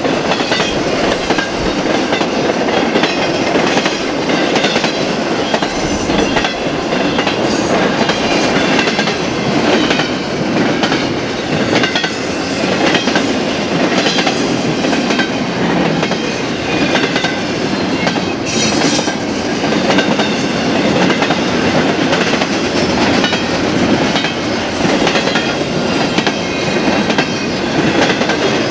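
BNSF freight train rolling steadily past, its wheels clattering over the rails in a continuous clickety-clack.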